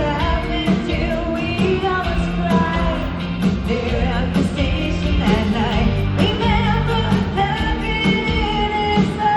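Live pop-rock band playing with a woman singing lead vocals over a steady drum beat, her held notes wavering in pitch.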